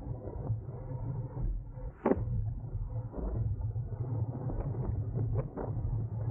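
Low, steady wind and road rumble on a camera riding along on a racing bicycle, muffled, with a sharp knock about two seconds in and a few lighter ticks after it.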